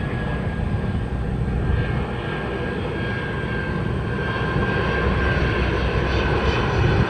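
A jet airliner's engines running, a steady low rumble with a thin high whine above it.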